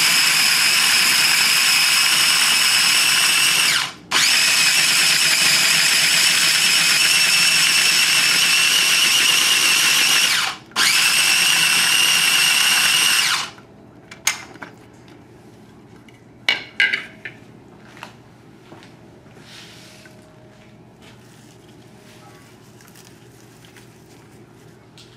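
Cuisinart food processor motor running loud and steady, puréeing shallots, garlic and cilantro with oil; it stops briefly twice and cuts off about halfway through. After that come a few light clicks and knocks.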